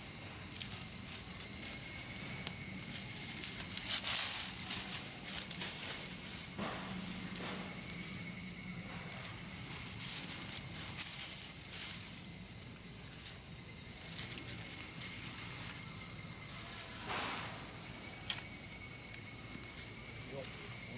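Steady, high-pitched chorus of insects, with a few short crackles and knocks from a campfire, the loudest about four seconds in.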